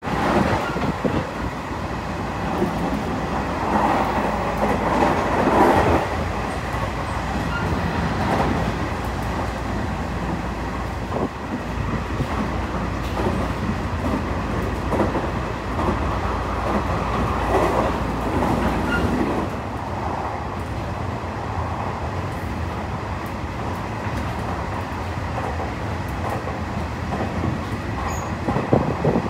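Cabin noise of a Nishitetsu 7000 series electric train car under way: a steady rumble of wheels on rail that swells and eases, with a few sharp knocks.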